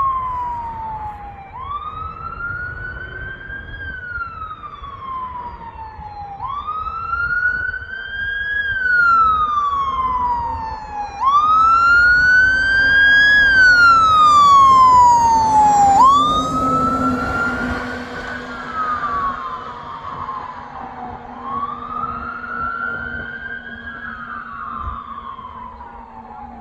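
Fire engine siren on a wail: five slow cycles, each rising quickly and then falling away over a couple of seconds. It grows louder toward the middle as the engine approaches, then fades as it moves off.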